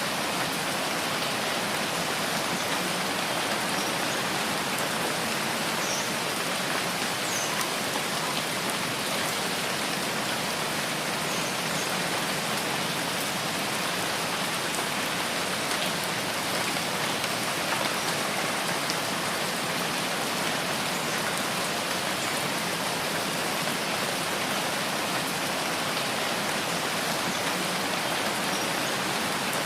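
Steady rain falling, an even hiss with faint scattered drops ticking on a surface.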